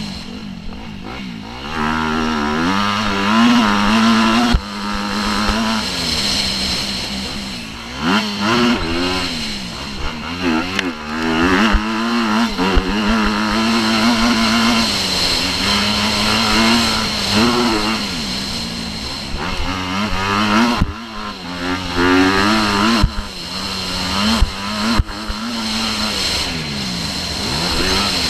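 Motocross bike engine revving hard and easing off again and again, its pitch climbing and dropping with throttle and gear changes, with a few sharp knocks.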